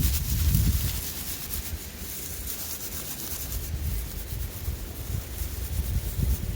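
Wind buffeting the microphone in uneven gusts. The gusts are strongest at the start and ease after about a second, over a steady hiss with faint ticks.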